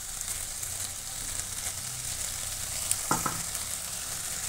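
Cauliflower and potato pieces sizzling in oil in a non-stick pan while being stirred with a spatula, a steady hiss with a couple of short scrapes of the spatula about three seconds in. The vegetables are being fried down until the water released by the cauliflower has cooked off.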